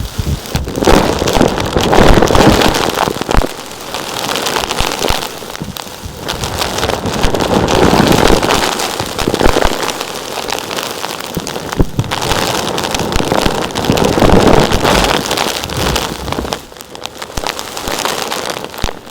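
Dense crackling and rattling of many small hard grit-like pieces, swelling and easing in waves every few seconds.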